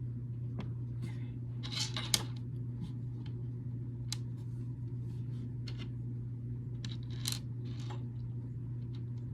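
Small plastic building bricks clicking and rattling as they are handled and pressed together, with a sharper click about two seconds in.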